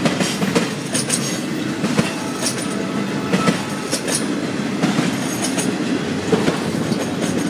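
Intermodal freight train cars, trailers on flatcars and double-stack container cars, rolling past: a steady rumble of steel wheels on rail, broken by irregular sharp clicks as the wheels cross rail joints.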